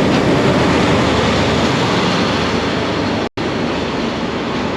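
Sagano Romantic Train, a diesel-hauled sightseeing trolley train, running on the line: a steady rumble and rail noise, broken by a momentary gap about three seconds in.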